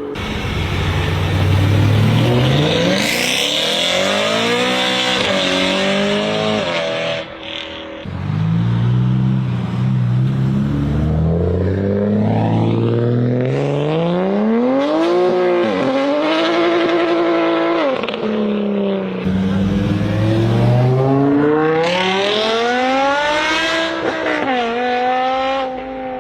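BMW M car's engine and exhaust under hard acceleration. The note climbs steadily with the revs, then drops sharply at each upshift, four or five times.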